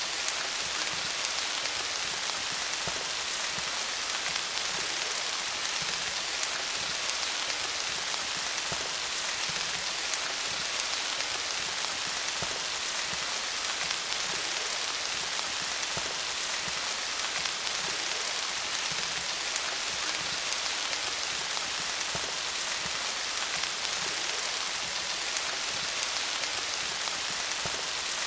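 Steady rain falling on leaves: a dense, even hiss of many small drop patters.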